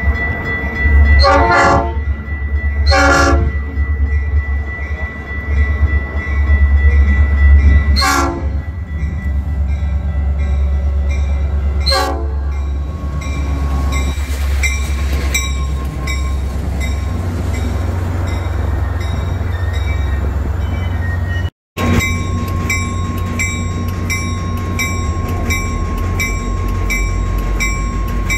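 Passing train: the locomotive's horn sounds four short blasts over a heavy low rumble. After a brief break in the sound, the train rolls by with a steady run of regular clicks.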